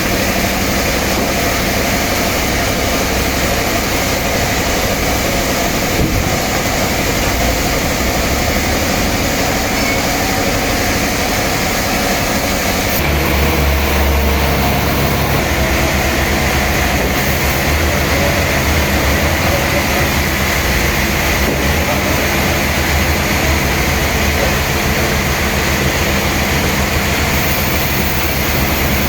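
Sawmill machinery running steadily while a large trembesi log is sawn, with a heavier low rumble setting in about halfway through.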